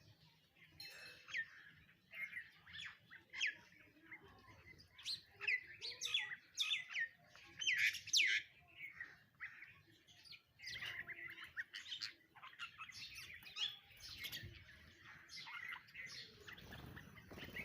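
Birds chirping and calling, many short whistled notes sliding up and down, in a dense flurry several seconds in and continuing more loosely after.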